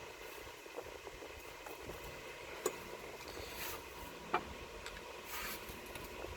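Hands and tools working at a hose in a car's engine bay: two sharp clicks a little under two seconds apart, and two brief scraping rustles.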